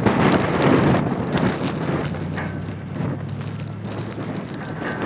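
Strong blizzard wind buffeting a phone's microphone: a loud, steady rushing noise that surges in the first second or so and then eases slightly.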